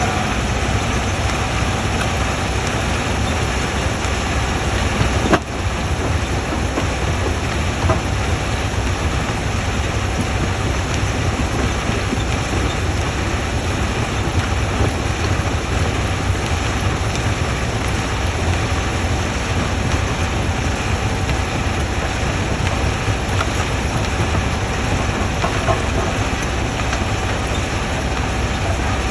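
Quarry jaw crusher running under load: a loud, steady mechanical din with a low rumble, broken by a few sharp knocks of rock, the clearest about five seconds in.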